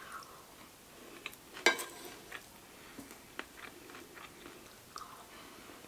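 Close-miked chewing of a mouthful of bibimbap rice, with soft wet mouth clicks and a sharper click about one and a half seconds in. A metal spoon and chopsticks scrape lightly against the ceramic bowl near the end.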